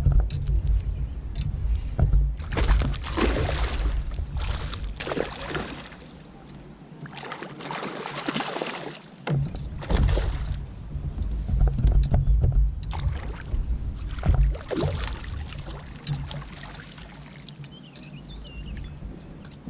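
Kayak paddle strokes splashing and washing through the water in irregular swells of a second or two each. A low rumble sits under them and drops away for a few seconds in the middle.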